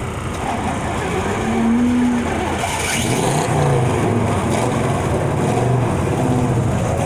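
Car engines running and revving, the engine pitch rising and falling a couple of times over a steady bed of engine noise.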